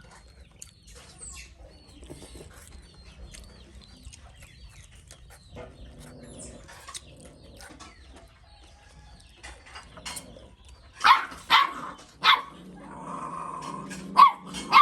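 Several loud, short animal calls, three in quick succession about eleven seconds in and one more near the end. Before them come faint chirps and small clicks.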